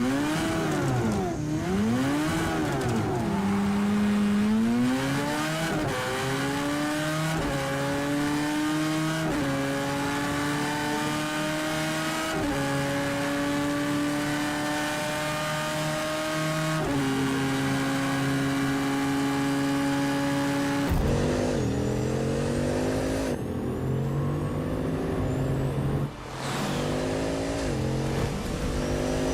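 Motor engine revving: its pitch swoops up and down, then climbs in steps and drops again, with faster rising and falling sweeps near the end.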